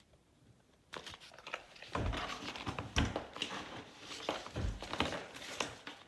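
Paper pages of a handmade junk journal being turned and handled, rustling and crinkling, with a few soft thumps as pages and inserts are laid down. It starts about a second in after a short quiet moment.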